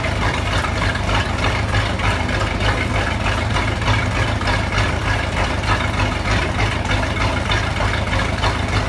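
Mercruiser 5.7 (350 V8), carbureted four-barrel boat engine idling steadily just after a cold start.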